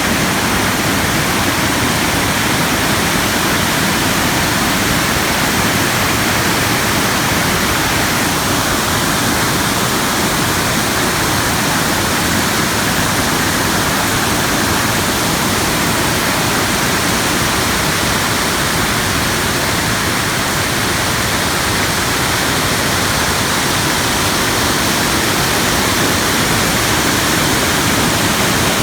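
Steady, loud rush of a waterfall, with water pouring down without a break.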